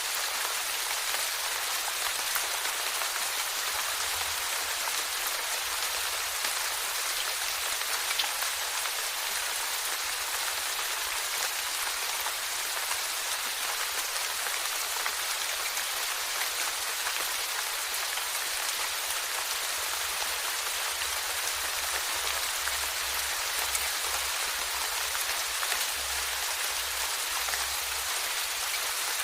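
Steady rain falling: an even hiss of many drops, with a few louder single drop ticks standing out.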